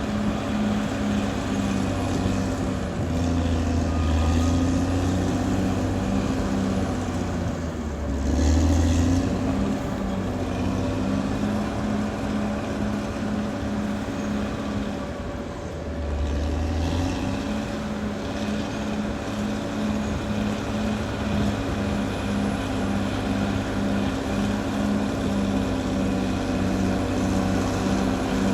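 Caterpillar D6R XL bulldozer's diesel engine running under load. It swells louder twice in the first nine seconds, eases briefly about halfway, then picks up again.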